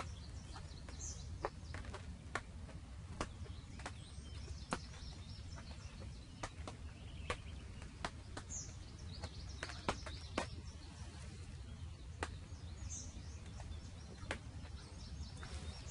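Quiet field ambience: a few brief, high bird chirps spaced several seconds apart over a low steady rumble, with scattered faint ticks.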